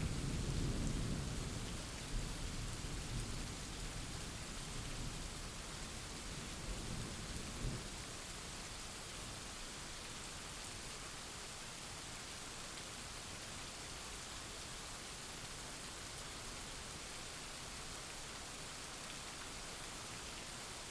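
Steady rain with a low rumble of thunder that fades away over the first eight seconds or so, leaving the even hiss of the rain.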